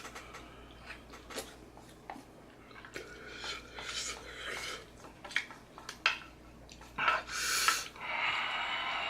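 Hard, breathy panting and sniffing from someone eating fiery-hot instant noodles, the breaths coming in several loud gusts, the strongest about seven seconds in. Small clicks and mouth noises sound between the breaths.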